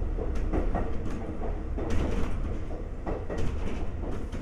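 Onboard running sound of a Konan Railway 7000 series electric railcar (ex-Tokyu 7000): a steady low rumble of wheels and running gear, with irregular knocks and clicks from the track.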